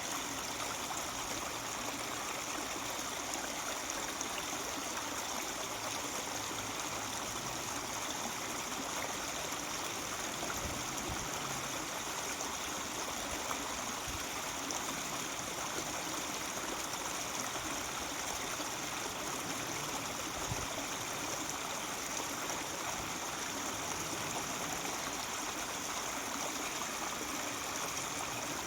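Mountain stream babbling and trickling over rocks, a steady, unbroken rush of water.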